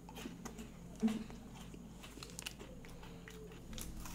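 Faint chewing of a large mouthful of chocolate, with scattered small clicks and a short louder low sound about a second in.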